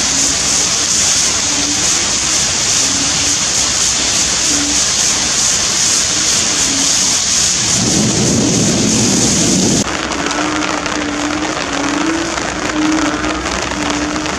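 Torrential tropical rain pouring down in a loud, steady hiss during a thunderstorm, with a low rumble about eight seconds in. The hiss drops suddenly about ten seconds in.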